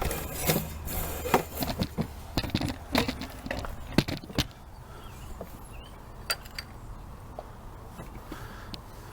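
Small metal parts and hand tools clinking and rattling as they are handled: a quick run of clicks and knocks for about four and a half seconds, then a few scattered ticks.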